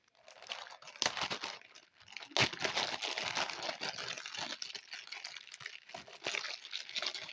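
Plastic bag crinkling and rustling as it is handled and opened to get homemade slime out, with sharp crackles at about one and two and a half seconds in.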